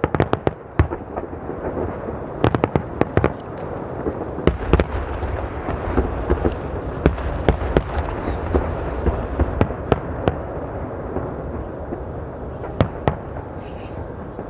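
Fireworks display: a dense run of aerial shell bursts and crackling, with sharp cracks over a continuous booming rumble that swells from about four and a half seconds in.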